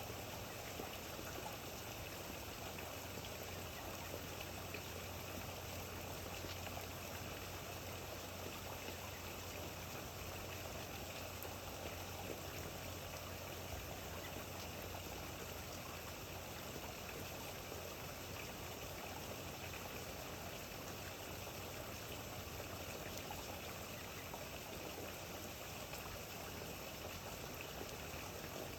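Steady rainfall with trickling water, an even hiss with faint scattered drop ticks that does not change.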